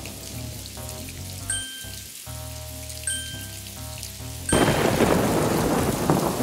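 Rain and thunder sound effect, coming in suddenly and loud about two-thirds of the way in. Before it, a quieter stretch of steady sustained tones with a short high ping about every second and a half.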